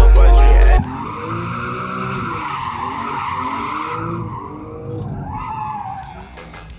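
Music cuts off abruptly under a second in. Then a drift car's engine revs up and down while its tyres screech through a slide, fading near the end.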